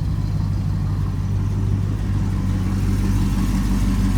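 A car engine running steadily with a low, even note.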